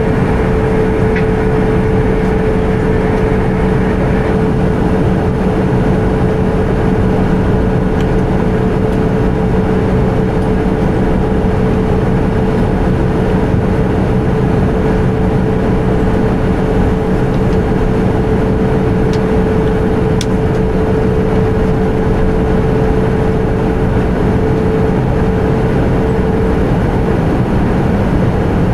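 Airbus A320 cabin noise: the steady rush of the jet engines and airflow, with a steady hum over it that fades out near the end.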